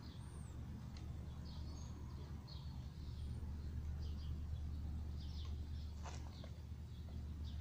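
Small birds chirping on and off over a steady low outdoor rumble.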